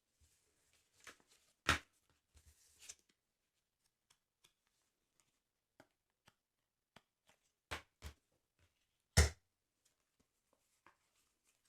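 Close, quiet handling of a paper sticker album: soft paper rustles and a scattering of sharp clicks, with two strong ones about two seconds in and a pair plus the loudest click about three quarters of the way through.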